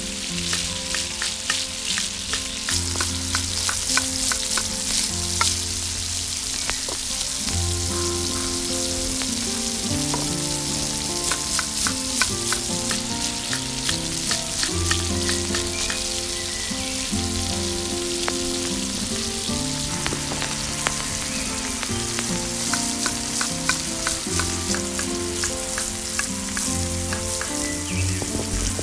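Cauliflower pieces and spices frying in oil in a miniature steel pot, sizzling and crackling steadily as a tiny spoon stirs them. Background music with held, stepped notes plays underneath.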